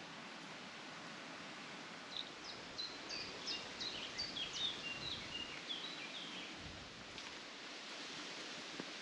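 A songbird sings a run of quick, high notes for about four seconds, starting a couple of seconds in, over a steady outdoor hiss.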